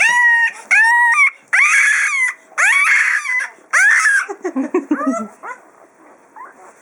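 Newborn puppy crying: five loud, high-pitched squealing cries over the first four seconds or so, then softer, lower squeaks and grunts that die away.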